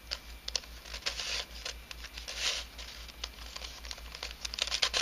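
3D-printed nylon helicopter cube puzzle being twisted by hand through a quick sequence of turns. Its pieces scrape and click against each other, with a grainy rasp on several turns.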